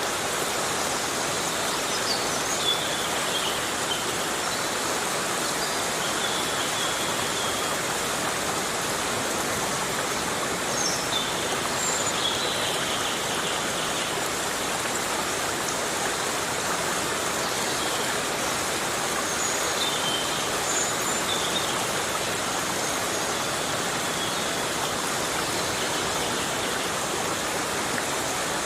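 Heavy, steady rain falling in a forest, an even hiss throughout, with short high chirps breaking through now and then.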